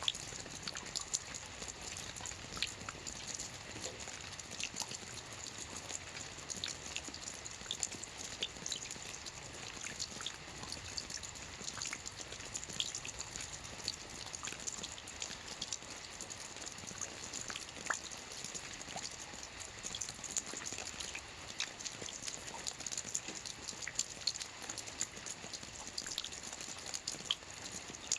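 Steady rain falling on a lake: an even, high hiss dense with many small, separate drop ticks.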